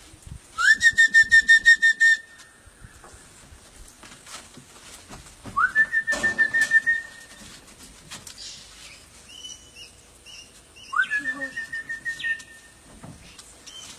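A trilling whistle blown three times as a call to bring parrots in to feed: each call slides up quickly to a high held note that warbles rapidly and lasts about a second and a half, about five seconds apart.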